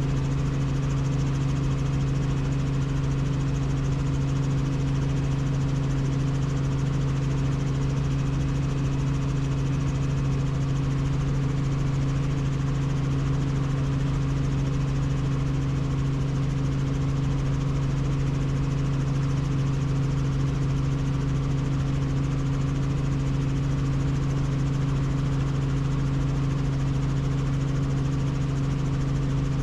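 Helicopter in flight: a steady, unbroken drone with a strong, constant low hum under a wash of mechanical noise.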